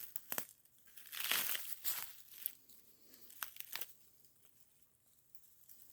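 Footsteps pushing through dense undergrowth: dry leaves and brush crunching and rustling, with a few sharp twig cracks, quieter in the second half.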